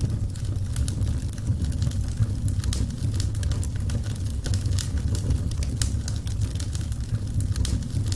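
Wood fire burning in a fireplace: a steady low rumble of the flames with frequent small crackles and snaps.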